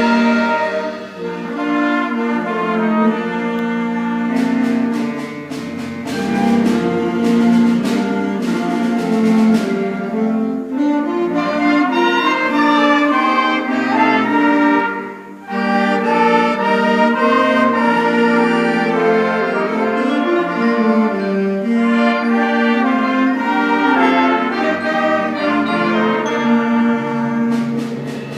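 School concert band playing a piece, with winds and brass holding sustained chords and melodies. Percussion hits come in between about 4 and 10 seconds and again near the end. The music drops off briefly around the middle before the full band comes back in.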